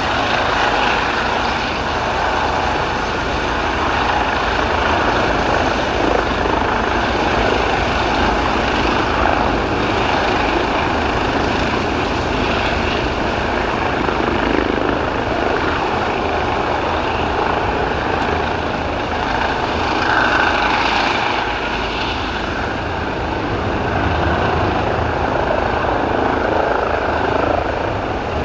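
Eurocopter EC135T2 helicopter's twin turbine engines and rotors running loudly and steadily, with mild swells in level.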